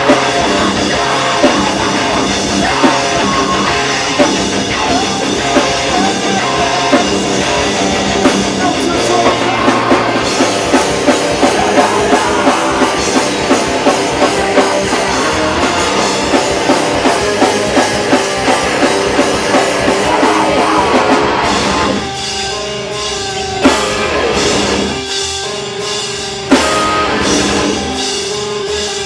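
Metalcore band playing live and loud: distorted electric guitars and a drum kit in a dense wall of sound, with the drums driving a fast, even run of hits from about ten seconds in. About twenty-two seconds in the music drops back to a sparser, quieter passage broken by a few single heavy hits.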